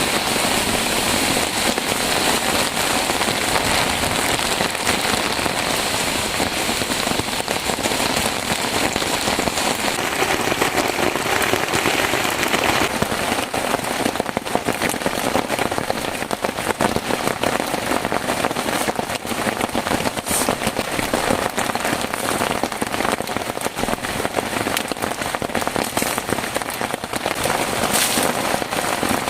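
Heavy rain falling steadily: a dense hiss made up of many distinct drop hits.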